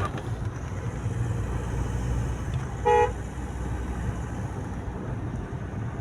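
Hyundai Creta's engine running with a steady low hum, smooth now that its injectors have been correctly coded and the earlier knocking rattle is gone. A car horn toots once, briefly, about three seconds in.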